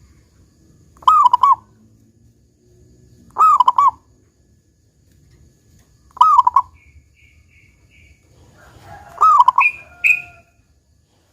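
Local zebra dove (perkutut) cooing, a bird prized for its big 'kung' note. It gives four short phrases of a few quick rolling notes each, about three seconds apart. A few thin, high chirps from another bird come between the last two phrases.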